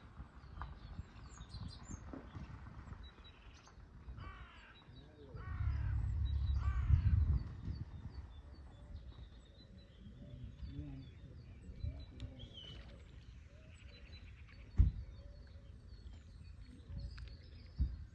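Outdoor birdsong with a run of three harsh, falling bird calls about four to six seconds in, and small bird chirps scattered throughout. A low rumble swells between about five and a half and seven and a half seconds, and there is a single sharp knock near fifteen seconds.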